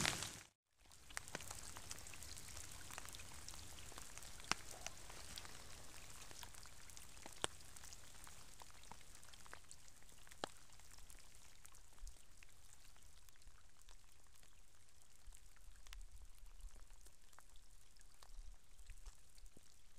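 Light rain falling: a steady faint hiss with scattered single drops ticking close by, a few a second at most. It starts after a brief silence about half a second in.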